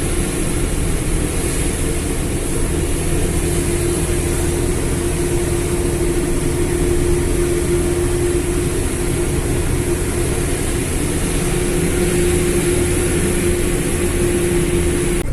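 Steady engine and road noise of a moving vehicle, with a constant droning tone over the rumble.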